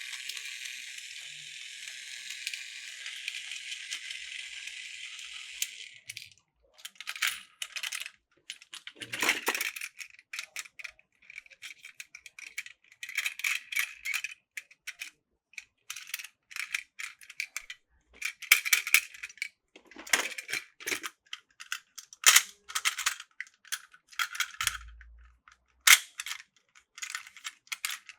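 Hard plastic toy parts rattling and clicking as they are handled. A steady high rattle for about the first six seconds stops suddenly, followed by many short, irregular clicks and clatters.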